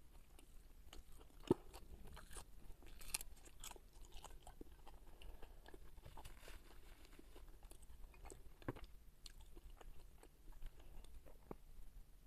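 Faint mouth sounds of chewing a bite of raw green onion stalk, with scattered crisp crunches and soft chews; the sharpest crunches come about one and a half seconds in and again near nine seconds.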